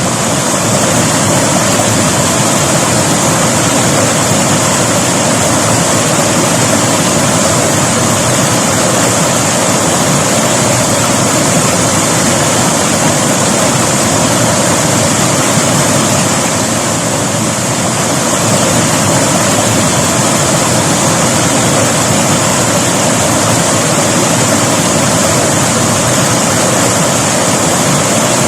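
River water rushing and splashing over rocks, a loud steady rush with a slight lull about two-thirds of the way through.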